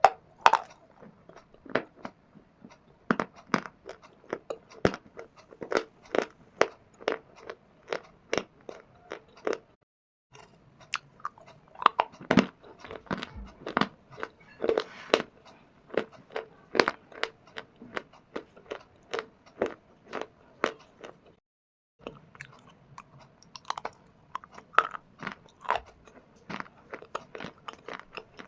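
Shale stone and dry clay crunching close to the microphone: a quick series of sharp, brittle crunches, about two a second, broken twice by a brief cut to silence.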